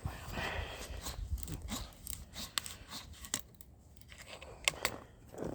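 Handling noises from a plastic quart bottle of motor oil and a new oil filter being readied for filling: a string of sharp clicks and ticks with a brief crinkling plastic rustle about half a second in.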